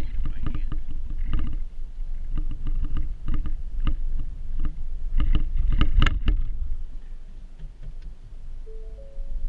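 Iron pull plow blade scraping snow over the ground in a series of short, uneven strokes, over a steady low rumble.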